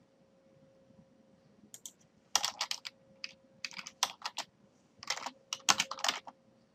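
Typing on a computer keyboard in quick runs of keystrokes, after a quiet second or so at the start. A faint steady hum lies under it.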